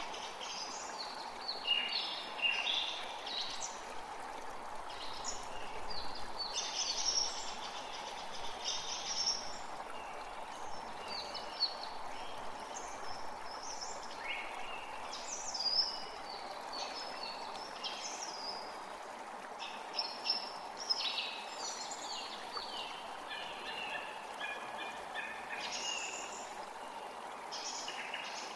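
Many songbirds singing and calling in quick, overlapping chirps and trills, over the steady rush of a forest creek.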